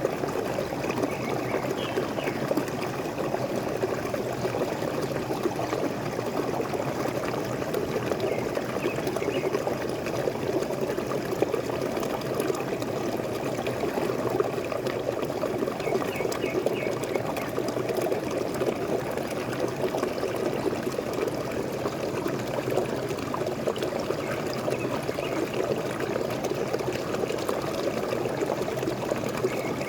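Waterfall running with a steady, even rush of falling water. Faint short bird chirps come through now and then.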